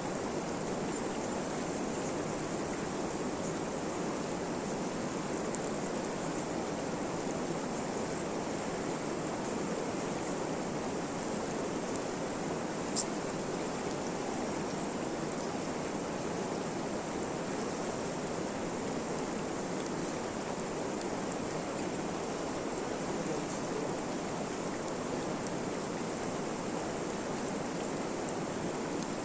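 Steady rain making an even, unbroken hiss, with one short click about thirteen seconds in.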